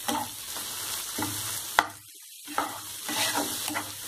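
Onion-tomato masala sizzling in a nonstick frying pan while a spatula stirs and scrapes through it in repeated strokes. A single sharp tap comes a little before halfway, and the sizzle briefly drops away for about half a second just after.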